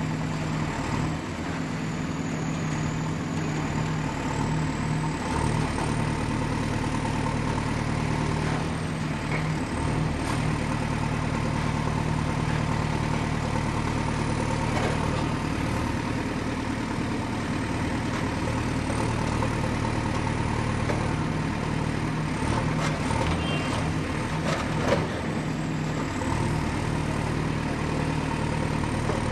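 Excavator's diesel engine running steadily, with a high whine that slowly drifts up and down. A few light clanks about three-quarters of the way in and one sharp metallic knock near the end.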